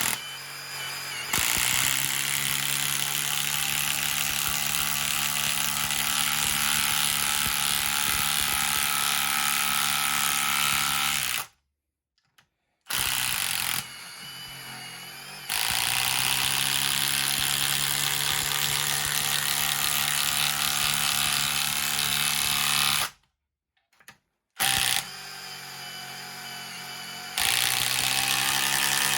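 Milwaukee M18 Fuel Gen 3 cordless impact driver hammering lag screws into a log through a socket adapter. It runs in long bursts, stopping briefly twice.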